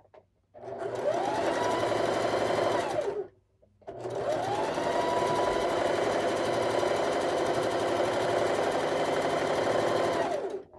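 Electric sewing machine stitching a seam in two runs: about three seconds, a short pause, then about seven seconds. Each time the motor's whine rises as it speeds up and falls away as it stops.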